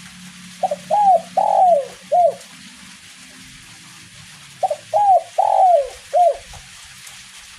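Spotted dove (derkuku) singing its cooing song twice, each phrase four arched coos with a longer, louder third note. Light drizzle hisses faintly underneath.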